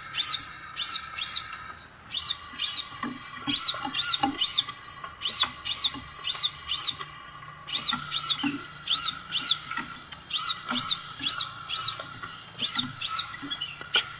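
Scarlet minivet calling: a run of short, arched, high whistled notes, about two to three a second, repeated in bursts with brief pauses, over a steady lower drone.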